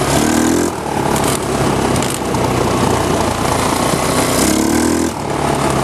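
GY6 150cc four-stroke single-cylinder scooter engine running, its pitch rising briefly twice, near the start and again near the end, as the throttle is opened.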